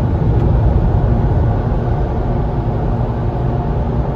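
Automatic car wash running: a steady, loud rumble with no break.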